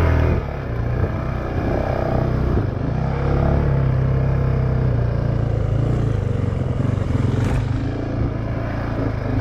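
Honda CRF450X dirt bike's single-cylinder four-stroke engine running at low revs while being ridden, the throttle eased off about half a second in and then held fairly steady.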